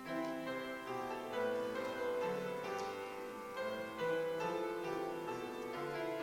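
Piano playing slow, sustained chords.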